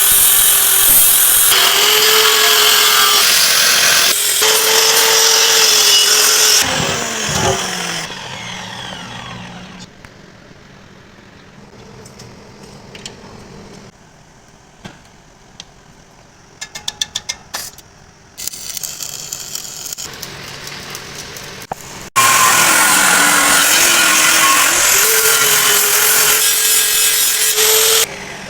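A handheld power tool working on the steel truck frame, running hard in two long stretches. The first stretch ends with the motor winding down about seven seconds in. In the quieter gap between the runs there are a few light clicks and knocks.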